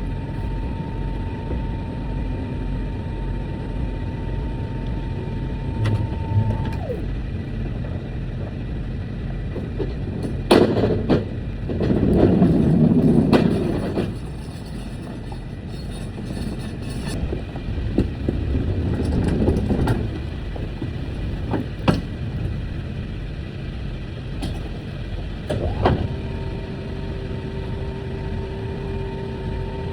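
Steady engine and road rumble from a moving truck, heard from inside the cab, with a few sharp knocks. The noise swells louder for a few seconds about eleven seconds in, and again more briefly near twenty seconds.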